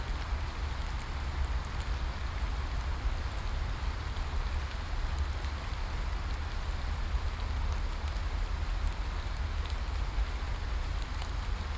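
Steady rain falling in an even hiss, with faint scattered drop ticks and a continuous low rumble underneath.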